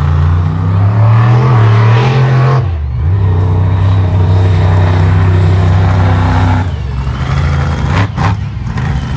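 Monster truck engine running hard and loud: its pitch climbs over the first couple of seconds, drops sharply, holds steady at high revs, then falls off about two-thirds through, followed by a couple of sudden loud bursts.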